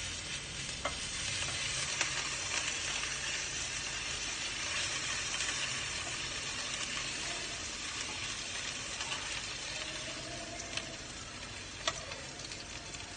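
Minced garlic sizzling in hot oil in a frying pan while being stirred with a spatula, with a few light clicks of the spatula against the pan.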